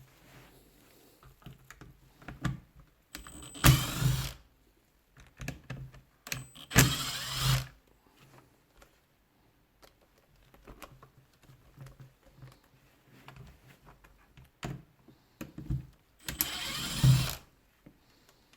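Small electric screwdriver motor whirring in three short runs of about a second each, backing out screws, with light clicks of parts being handled between the runs.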